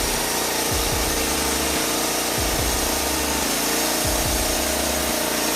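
Norwood LM29 portable band sawmill running steadily, its engine and blade going at a constant pitch as it works through a log.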